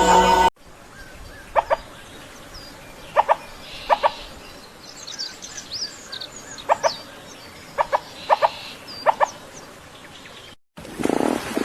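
Bird calls: short clipped calls, several given in pairs, repeated every second or so, with thin high chirps from other birds in the background. A brief loud stretch of other sound cuts off about half a second in, and another animal sound begins near the end.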